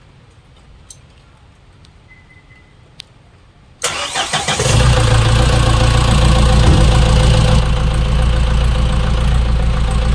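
A 2016 Mahindra CRDe common-rail diesel engine is cranked by the starter about four seconds in, catches within a second and settles into a loud, steady idle. Before that there are only a few faint clicks.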